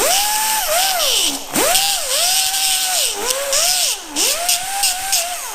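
Small high-speed grinder whining, its pitch sagging several times as it is pressed onto the metal and climbing back, with grinding hiss. It is grinding the end off a plug in the fender so no copper is left.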